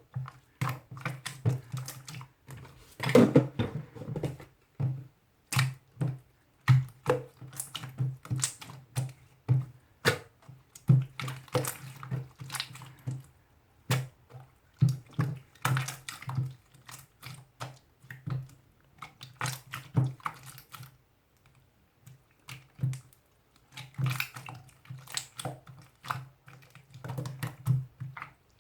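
Irregular quick taps and clicks, like typing, each with a low thud, pausing briefly about three quarters of the way through.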